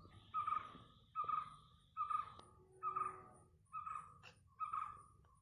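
A bird calling over and over, one short call a little under once a second, six calls in all.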